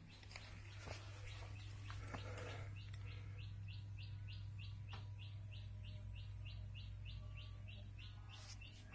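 A bird chirping faintly and repeatedly, short high calls about three a second starting about three seconds in, over a steady low hum.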